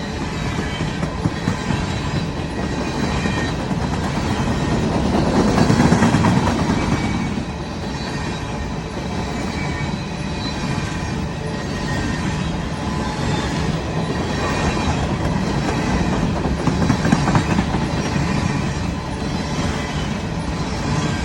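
Empty coal hopper cars of a freight train rolling past: a continuous rumble and clatter of steel wheels on the rails, with thin wheel-squeal tones above it. It swells louder about five to seven seconds in, and again briefly near seventeen seconds.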